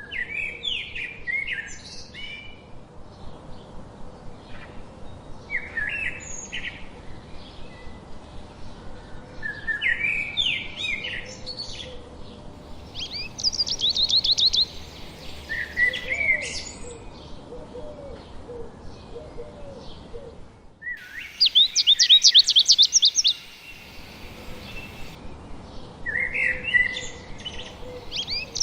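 Songbirds singing: short phrases of high whistled and chirped notes come every few seconds. A fast, loud trill of repeated high notes sounds about 13 seconds in, again about 21 seconds in, and once more at the very end.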